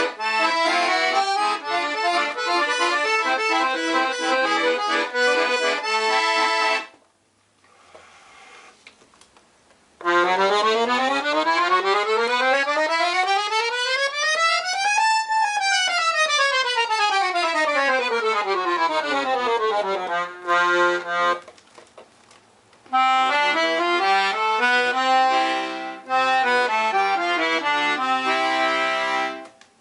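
Black Parrot piano accordion with three-voice LMM treble reeds being played: a passage of chords and melody, a short pause, then a fast run up the keyboard and straight back down. After another brief pause the playing resumes.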